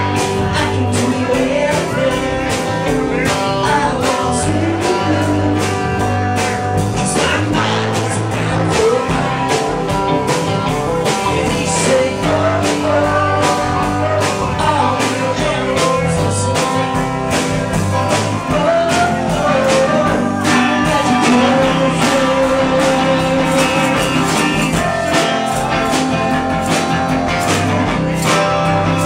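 Live indie rock band playing a passage with no sung words: guitars over a steady drum beat, with a lead melody line wandering above.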